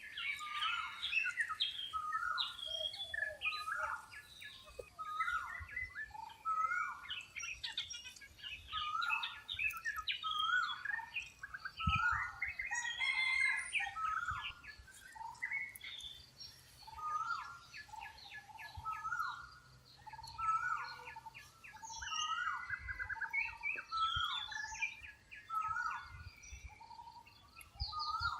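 A busy chorus of birds calling: short, quickly repeated hooked calls, with higher chirps scattered over them.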